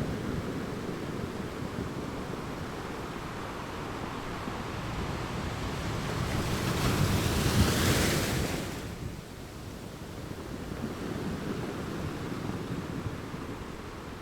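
Ocean waves washing on a shore. One wave builds to a hissing break about halfway through, then falls away sharply into a softer wash.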